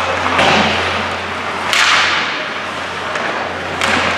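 Ice hockey play in an arena rink: three sharp cracks of stick, puck or boards, about half a second in, near the middle (the loudest, ringing on in the rink) and near the end, over a steady rink noise and a low hum.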